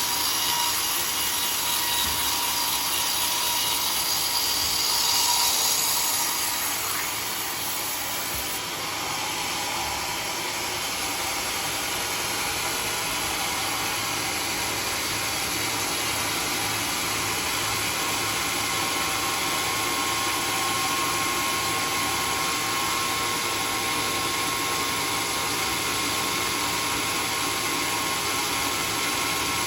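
Sawmill saw cutting through teak wood. The cut is loudest and highest about five seconds in, then settles to a steadier, slightly lower run from about eight seconds on.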